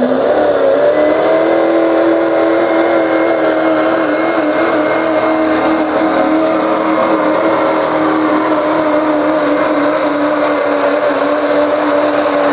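Ford diesel pickup truck's engine at full throttle, pulling a sled. Its pitch jumps up at the start and holds high and steady, with a thin high whistle above it, then drops sharply at the end as it comes off the throttle.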